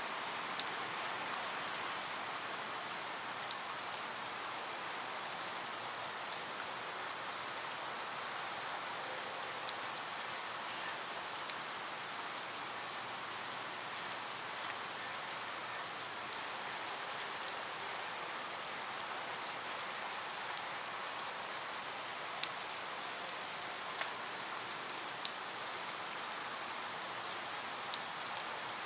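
Steady rain falling, with many single drops ticking sharply over the constant hiss.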